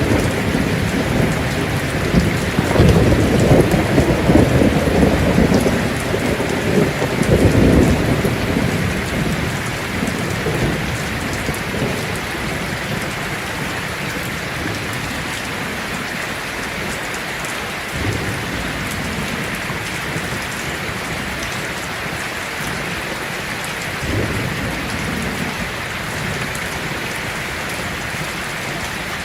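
Heavy rain drumming steadily on a tin roof, with a long rolling thunder rumble in the first several seconds that fades out, and two fainter rumbles later.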